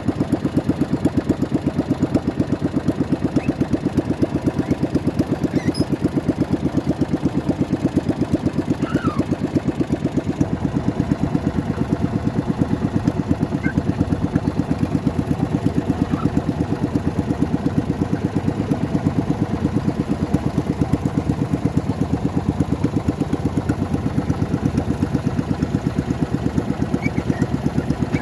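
Engine running steadily at a constant speed, with an even, rapid pulsing beat that never changes.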